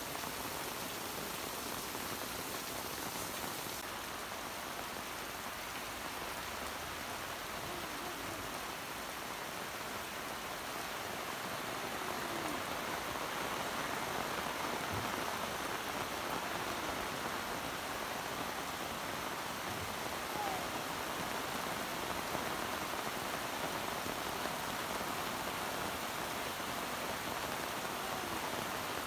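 Heavy rain pouring steadily onto corrugated metal roofs and a yard, with water running off the roof edges. It grows a little louder about twelve seconds in.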